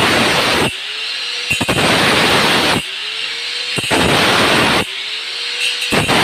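Handheld power tool cutting into floor tile for a toilet drain hole, in repeated bouts of about a second each. Between bouts the motor's whine rises as the blade comes off the cut.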